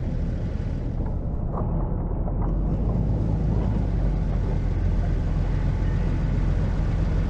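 Snowplow truck's engine running steadily under load, a low, even drone.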